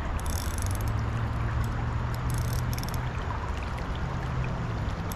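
Steady rush of flowing river water with a low steady hum underneath.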